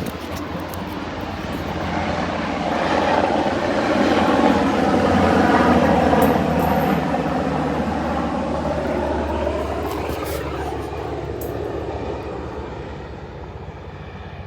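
Black Hawk military helicopter flying past: its engine and rotor sound swells to a peak about five seconds in, then fades as it moves away, the pitch dropping as it passes.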